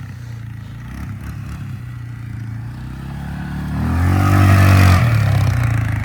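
An engine running, revving up about three and a half seconds in, loudest for about a second, then easing back down.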